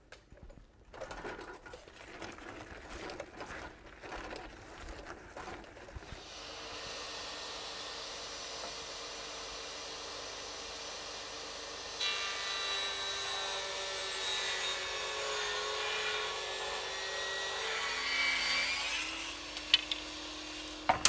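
A power saw ripping a wooden board lengthwise to trim it narrower: a few seconds of handling knocks and rubbing, then a steady run of saw noise with a whine from about six seconds in. The pitch shifts near the end as the cut finishes.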